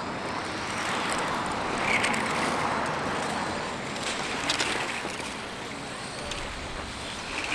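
1/10-scale RC Formula 1 pan cars racing on the track, a steady haze of motor whine and tyre noise that swells about two seconds in as the cars pass close.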